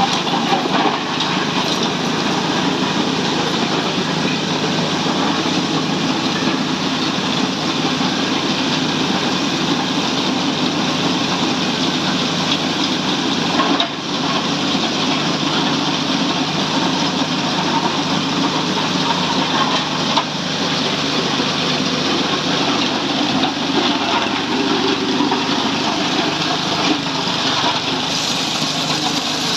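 Block-ice crushing machine running steadily, a loud, dense mechanical noise like a small engine, with one brief dip about halfway through.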